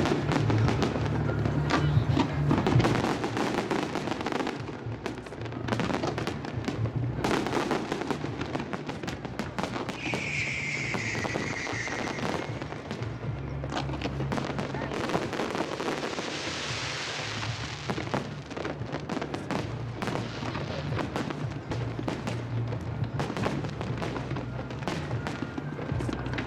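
Aerial fireworks display: a dense, continuous run of shell bursts and crackling bangs, with music playing underneath.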